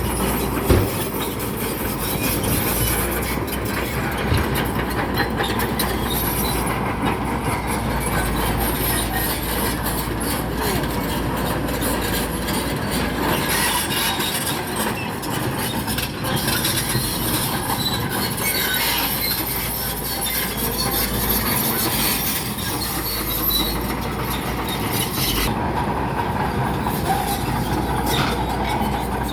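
Crawler bulldozer working, its diesel engine running under load while the steel tracks clank and squeal steadily. There is a sharp knock about a second in.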